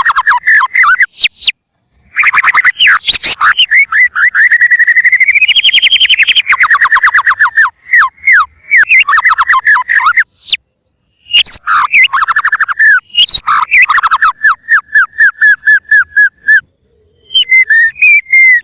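White-rumped shama (murai batu) singing hard: loud, fast runs of clear whistled notes and rapid repeated chips, with a long rising run about four to six seconds in. Short pauses break the song, near two seconds, ten seconds and seventeen seconds in.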